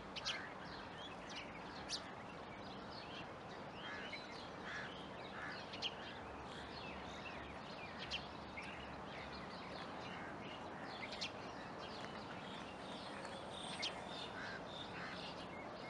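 Small birds chirping: many short calls and whistles throughout, with several sharper, louder calls scattered among them, over a steady background hiss.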